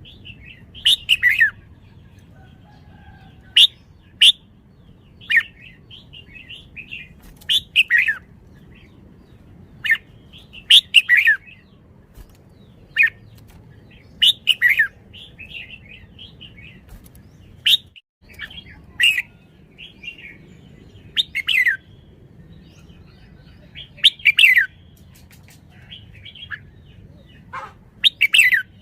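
Red-whiskered bulbul singing in short, loud, warbling phrases, one every second or few seconds, with sharp clicks in between.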